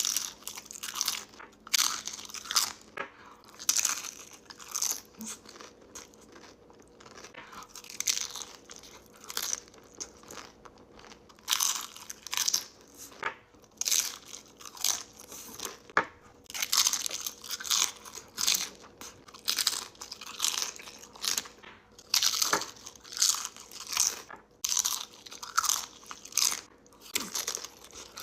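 Crunching and chewing of Chipotle tortilla chips, crisp bites coming about once or twice a second with short pauses between runs.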